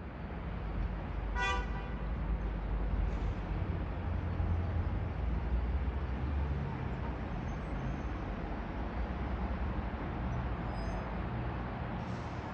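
Steady low outdoor rumble, with one short horn toot about a second and a half in.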